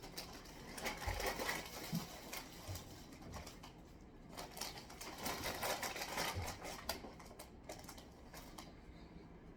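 Plastic food packaging and containers being handled: irregular rustling and crinkling with many small clicks and a few light knocks.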